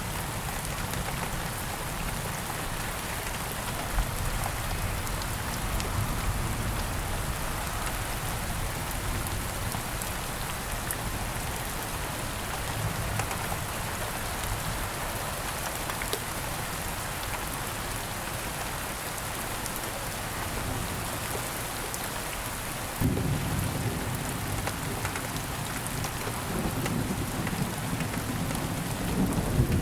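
Steady rain falling, with scattered individual drop ticks. About three-quarters of the way through, a low rumble of thunder sets in suddenly and keeps building toward the end.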